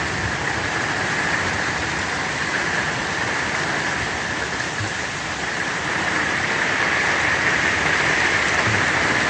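Heavy rain falling steadily: a dense, even hiss of drops, getting a little louder after the middle.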